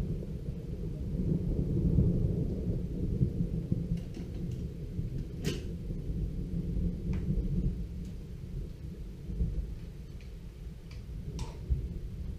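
Rolling thunder: a deep rumble that swells to its loudest about two seconds in, then slowly dies away, with a few faint sharp clicks over it.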